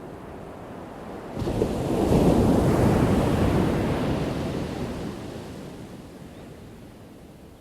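Ocean wave breaking on the shore: the crash comes in suddenly about a second and a half in, then washes out and slowly fades over several seconds.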